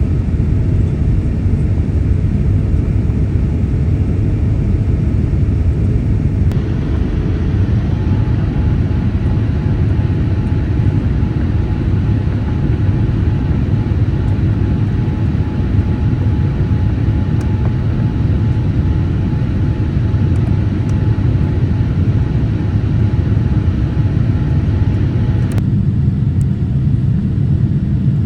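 Steady low rumble of a Boeing 787-8 airliner heard from inside the passenger cabin. The character of the noise shifts abruptly twice, about six seconds in and near the end.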